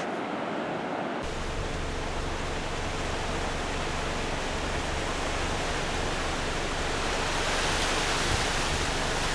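Strong wind blowing over the microphone: a steady rushing noise that deepens about a second in and grows slowly louder toward the end.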